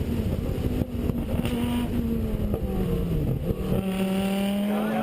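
Rally car engine running hard at high revs, its pitch held mostly steady, then dropping about three seconds in and picking up again, as when the driver lifts off or shifts and gets back on the throttle.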